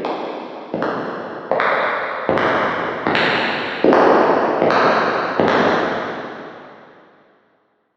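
Footsteps at a steady walking pace, each step echoing strongly. The steps grow louder, stop about five and a half seconds in, and the last one rings out.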